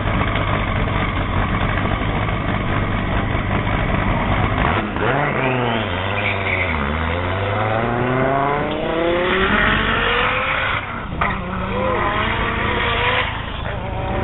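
The twin-turbocharged V10 of an 1800 hp A.R.T. Ballista Dodge Viper runs loudly and steadily at the line, then launches and accelerates hard. Its pitch climbs through the gears, with two brief breaks at the shifts near the end.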